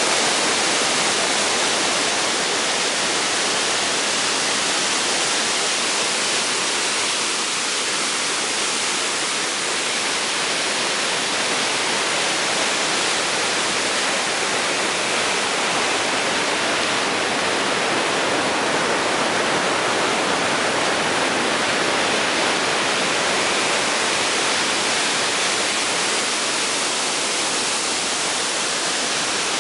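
Mountain-stream waterfall: a steady rush of falling water, even and unbroken.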